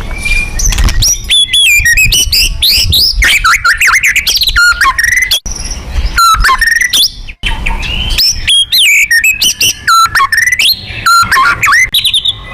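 White-rumped shama (murai batu) singing loudly: a rapid, varied run of short whistled notes sweeping up and down, fast trills and sharp clicks, with a brief pause about halfway through.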